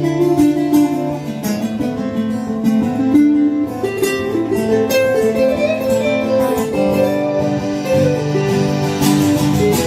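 Instrumental passage of a song led by plucked acoustic guitar, its notes changing melody as it goes, with no singing.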